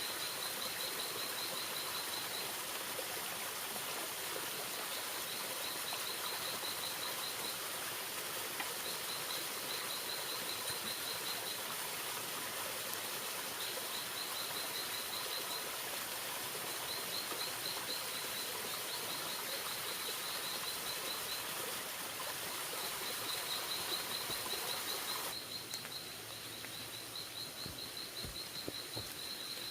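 Forest ambience: a high, rapid trill, each burst about two seconds long, comes back every three to four seconds over a steady hiss. The hiss drops a little near the end.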